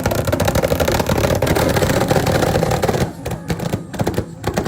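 A modified car's engine revving hard with a loud crackling exhaust for about three seconds, then coming off the throttle, with scattered sharp exhaust pops.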